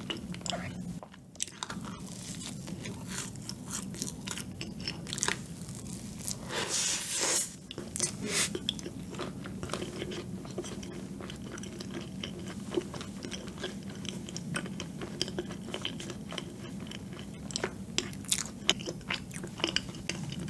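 Close-up chewing and biting into a soft cream-filled donut, with many small wet mouth clicks and a louder burst of noise around seven seconds in, over a steady low hum.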